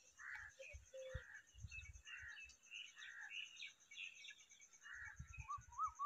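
Faint bird calls: short soft chirps repeated about every half second to second, higher twittering in the middle, and a quick up-and-down warbling series starting near the end. A few low thuds underneath.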